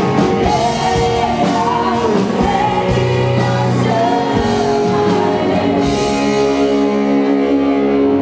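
Live worship band playing with voices singing over held chords. Drum and cymbal strokes play in the first half, then fall away about five seconds in, leaving the sustained chords and the voices.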